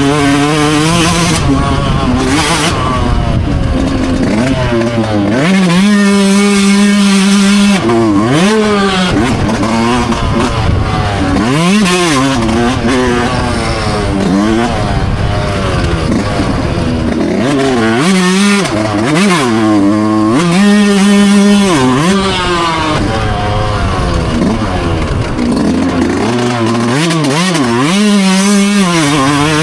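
Dirt bike engine revving hard, its pitch climbing and dropping again and again as the rider works the throttle and shifts, held high for a couple of seconds at a time in places.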